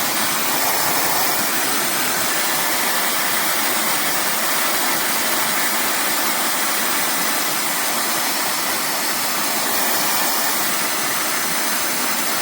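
Slopehill high-speed hair dryer running, its fast motor pushing a steady rush of air with no change in pitch or level.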